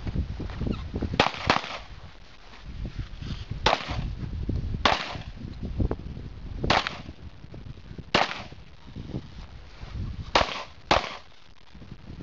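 Pistol fired during a timed USPSA stage: eight sharp shots, a quick double at the start, four single shots a second or two apart, then another quick double near the end.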